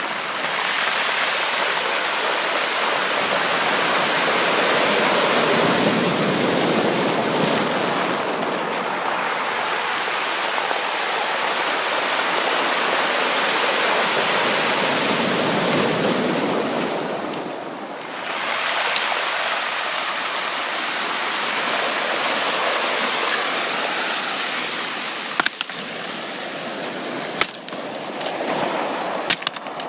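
Sea waves breaking and washing up a beach in two long surges, with a short lull between them about eighteen seconds in. A few sharp clicks come in the quieter wash near the end.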